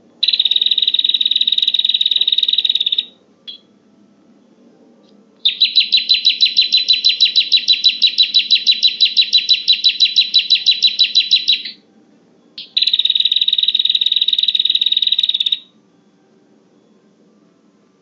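Prenjak (prinia) lure call: three bouts of a high, rapid trilling song, the middle one the longest at about six seconds, with distinct pulses about six a second.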